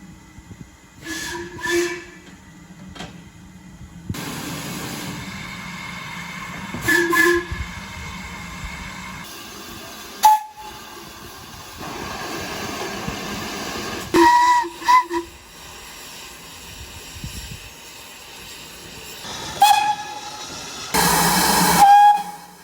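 Steam locomotive whistles giving a series of short blasts, one a quick double toot, over steady hissing steam. Near the end comes a loud burst of escaping steam with a final whistle blast.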